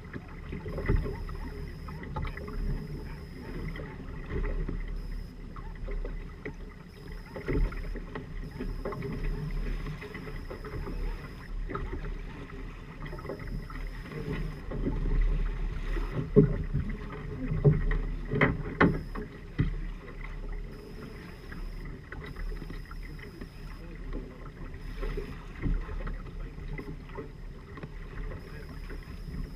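Water rushing and slapping along the hulls of a Firefly 26 trimaran under sail, over a steady low rumble, with several sharp knocks, the loudest cluster just past the middle.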